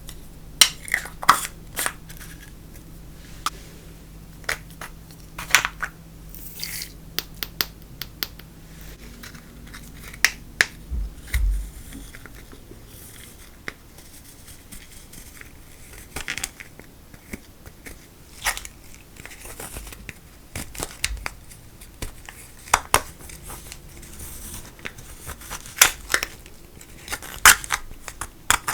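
Slime being worked by hand, giving irregular sharp sticky clicks and pops, some in quick clusters.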